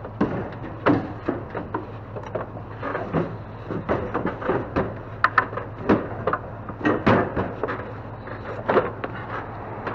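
Wooden bathroom vanity cabinet being handled, giving a run of irregular knocks and clunks, over a steady low hum.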